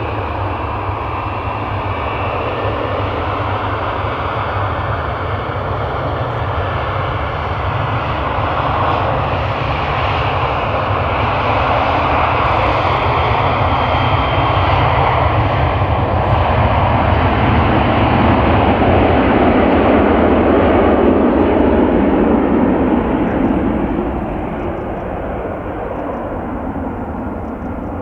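Widebody twin-engine jet airliner's turbofan engines running close by, a loud rushing roar that builds slowly to a peak and then drops off sharply a few seconds before the end.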